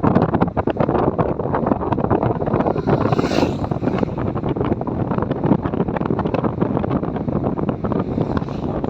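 Wind buffeting the microphone over the steady rumble of a moving vehicle, with a brief hiss about three seconds in.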